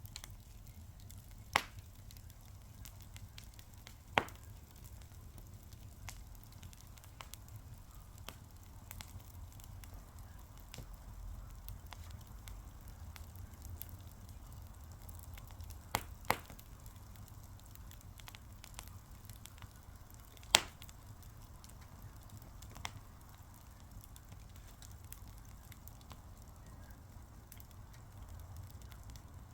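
Wood fire burning with a low rumble and light, constant crackling, broken by half a dozen sharp pops, the loudest about two-thirds of the way through.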